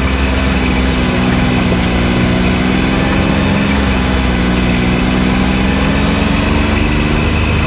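Can-Am Maverick X3 side-by-side's turbocharged three-cylinder engine running steadily under light throttle on the trail, its pitch drifting gently up and down.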